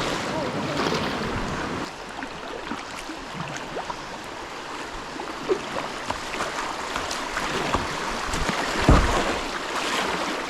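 Whitewater river rushing steadily, with scattered short splashes and knocks and one loud low thump about nine seconds in.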